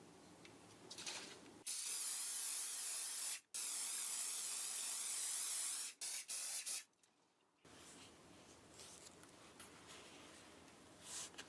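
Spray can hissing in two long sprays about two seconds each, then a few short bursts, as a shoe is sprayed.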